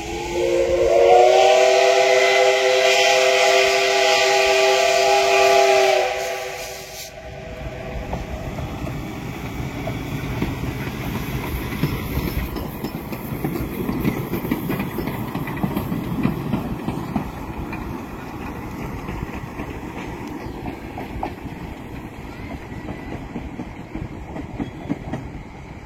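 Train horn sounding loud and steady for about six seconds, then a train running past with a steady rumble of wheels on the rails. A second horn blast starts right at the end.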